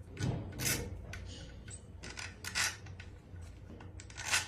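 Small metal objects clinking and scraping, with a few sharp clinks spread across the stretch over a steady low hum.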